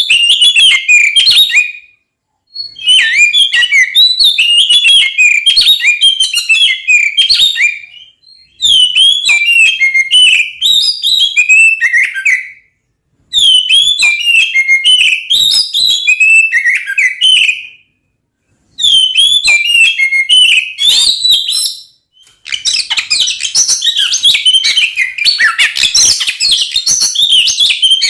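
Oriental magpie-robin (kacer) singing loudly: an aggressive, territorial fighting song of rapid varied whistles and chatters. It comes in phrases of three to five seconds with gaps of about half a second to a second, and turns denser and continuous from about three-quarters of the way through.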